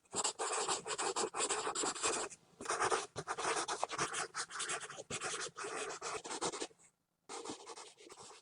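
Pencil scribbling fast on paper: dense scratching strokes in runs, with a short pause about two and a half seconds in and another about seven seconds in, followed by quieter strokes near the end.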